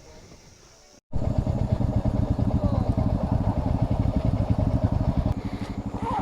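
Motorcycle single engine running under way, a loud, rapid low pulsing exhaust note that starts suddenly about a second in and eases off a little near the end.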